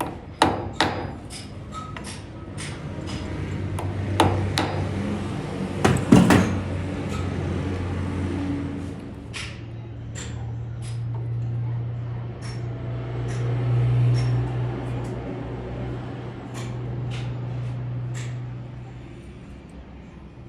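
Workshop metalwork: a series of sharp metal knocks and clatters, the loudest about half a second, four seconds and six seconds in. Under them is a low steady machine hum from about three seconds in.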